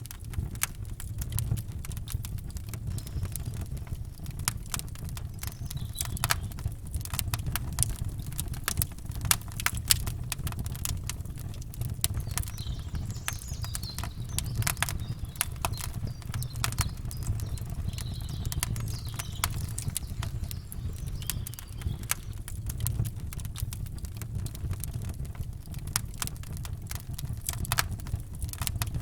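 Campfire crackling, with irregular sharp pops over a steady low rumble. Faint bird chirps come in now and then.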